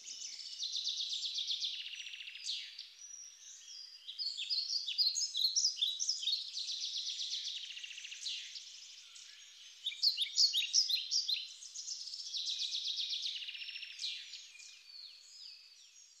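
Birds singing: a continuous run of high chirps and rapid trills, easing off briefly a few times and fading near the end.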